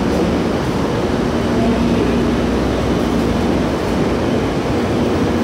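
Steady noise on a Shinkansen platform beside a stopped Hayabusa train with its doors open: the standing train's hum mixed with station ambience, with a faint low hum through the middle.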